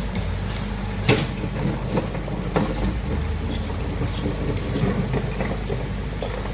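Heavy diesel excavator engine running steadily under load, with scattered metallic knocks and clanks from the working machine, the loudest about a second in.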